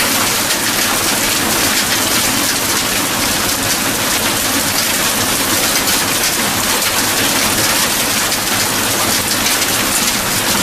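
Steady heavy rain falling and pattering on surfaces, an even unbroken hiss.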